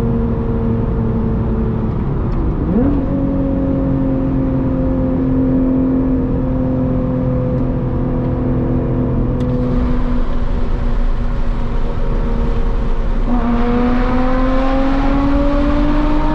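Lotus Evora GT's supercharged 3.5-litre V6 running through a titanium exhaust under way. About three seconds in its pitch dips and jumps back up in a quick gear change, then slowly falls. Near the end it gets louder and rises in pitch as the car accelerates.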